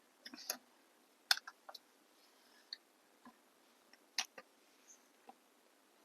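Light, irregular clicks and taps, about ten in all, the sharpest about a second in and again past the fourth second, from small nail-art bottles and tools being handled on a work surface.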